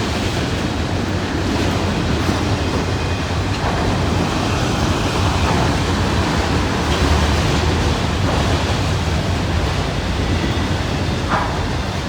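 Freight train rumbling steadily along the track, a continuous low rumble with rushing noise over it.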